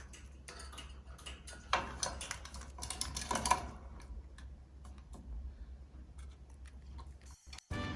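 Cockatiel pecking and crunching food with its beak: a run of light, irregular clicks and taps that thin out after about four seconds.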